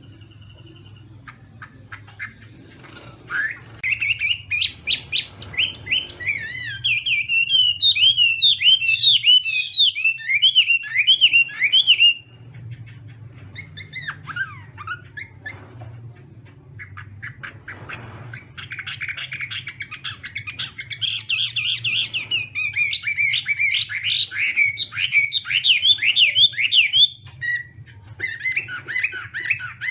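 Chinese hwamei singing in two long runs of rapid, varied notes, the first from about three seconds in to about twelve, the second from about eighteen seconds to near the end, with a few scattered notes between. A steady low hum runs underneath.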